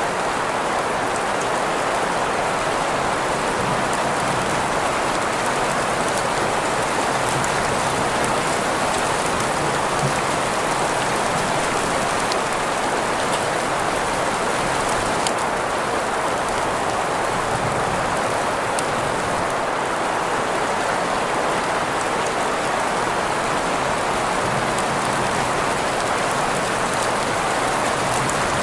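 Steady green noise, an even hiss centred in the middle of the range, blended with continuous rain, with faint ticks of individual drops scattered through it. The level does not change.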